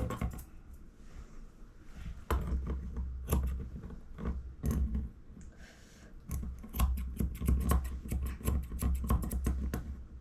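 Grooming scissors snipping fur around a puppy's feet in quick, irregular clicks, sparse at first and coming thick and fast from about seven seconds in, over a low intermittent rumble.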